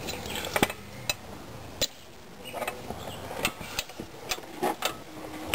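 Irregular metallic clinks and knocks of hand tools worked against the lower mount of a truck's shock absorber, at uneven intervals.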